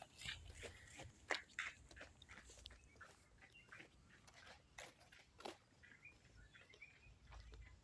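Near silence: faint irregular clicks and rustles, with a low rumble near the start and again near the end.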